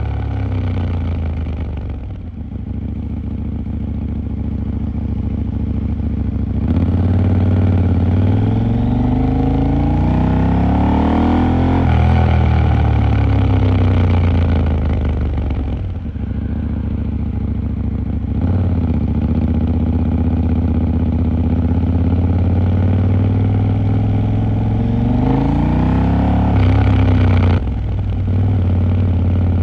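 KTM 890 Duke R's parallel-twin engine running under way in city riding. The pitch climbs as it accelerates from about seven seconds in and drops suddenly a few seconds later, then holds steady before a second long climb and sudden drop near the end.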